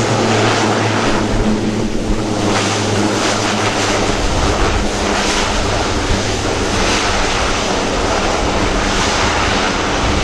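Lockheed Martin C-130J Super Hercules turboprop engines running loud on a landing, a steady rushing drone with a low hum that fades about four seconds in, leaving a rougher rush.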